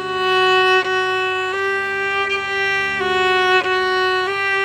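Fiddle playing long bowed notes in D, starting on G (third finger) and moving to a new note about every second, with one note held steady beneath the changing ones.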